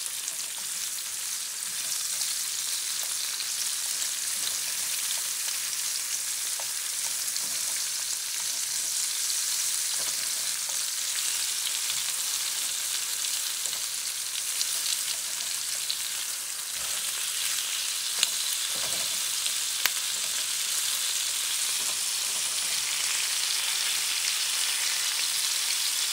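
Seasoned chicken pieces and sliced onion sizzling in olive oil in a nonstick frying pan, a steady high hiss with a few sharp ticks.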